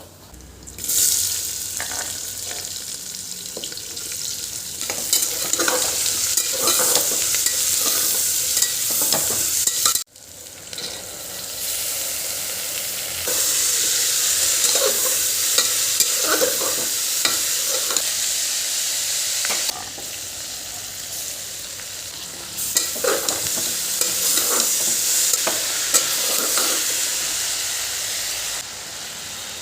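Food sizzling in a hot pan while being stirred, with a spatula scraping the pan now and then. The sizzle breaks off sharply about ten seconds in and starts again at once.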